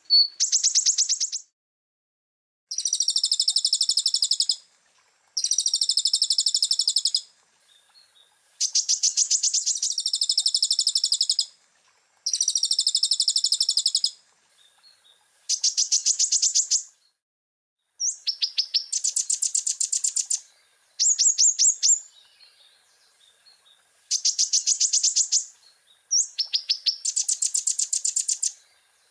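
Kolibri ninja (konin) sunbird singing: a run of rapid, high-pitched trilled phrases, each about two seconds long, with short pauses between them.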